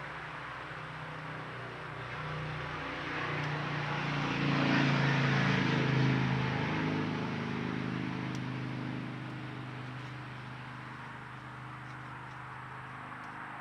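A vehicle passing by: engine hum and road noise swell to a peak about five seconds in, then fade away.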